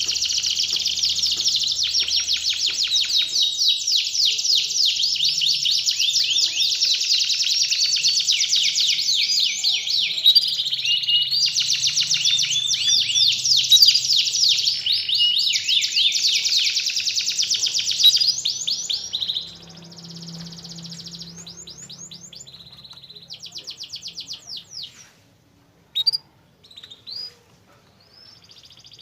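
Domestic canary singing a long, fast song of dense rolling trills; about nineteen seconds in it drops to quieter, scattered trills and a few short sharp chirps.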